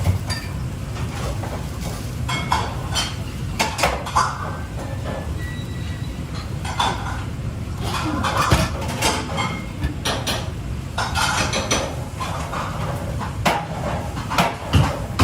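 Cookware and utensils clinking and clattering in irregular bursts of sharp knocks, over a steady low rumble.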